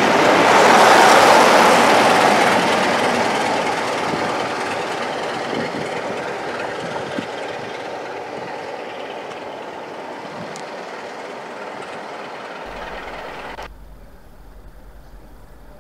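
A train of passenger coaches rolling past on the rails, loudest about a second in and fading steadily as the train draws away. The sound cuts off abruptly near the end, leaving a quieter background with a low hum.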